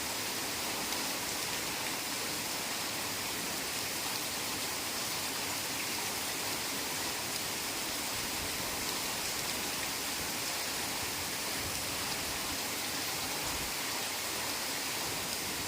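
Heavy rain falling steadily, a dense, even, bright hiss with no single drops or breaks standing out.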